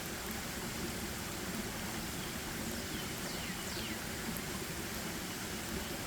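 Forest ambience: a steady, even rushing noise. About three and a half seconds in come two short, high whistles that fall in pitch.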